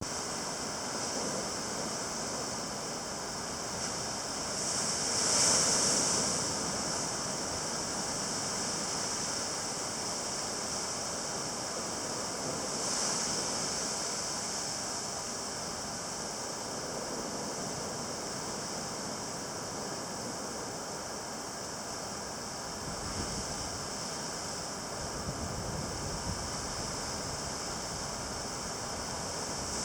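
Sea waves surging and breaking at a harbour, a steady wash with louder surges about five and thirteen seconds in. Gusts of wind rumble on the microphone in the last several seconds.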